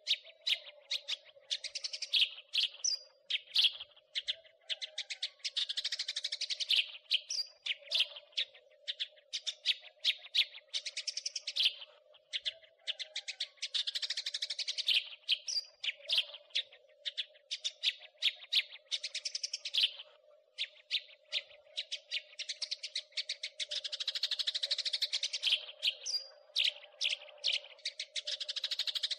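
House sparrow chirping and chattering: long, rapid runs of short, sharp chirps, bunching into dense bursts of chatter every several seconds, over a steady faint low hum.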